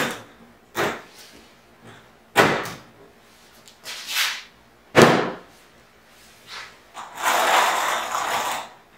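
Sharp wooden knocks and clunks, about five in the first five seconds, as a 2x4 cart base and its caster wheels are handled, then a scraping, rustling stretch of over a second near the end.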